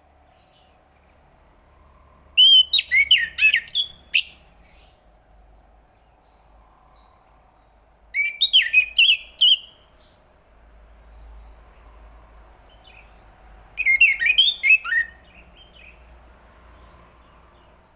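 Chestnut-capped thrush singing: three short phrases of rapid, sweeping notes, each about a second and a half long, a few seconds apart.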